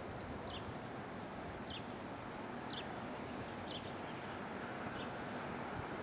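A bird repeating a short, high, slightly falling chirp about once a second, over a steady outdoor hiss.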